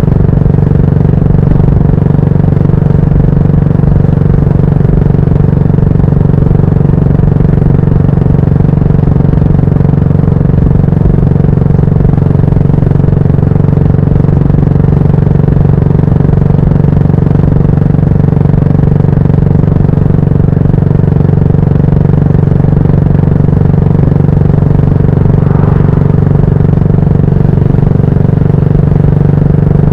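Yamaha SR400's 399 cc air-cooled single-cylinder engine running at steady revs through a GOODS tapered cone aftermarket muffler.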